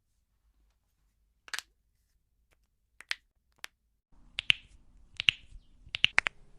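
Joints being cracked: sharp single pops, a few spaced well apart at first, then quicker pairs over the last two seconds or so. A faint low hum comes in about four seconds in.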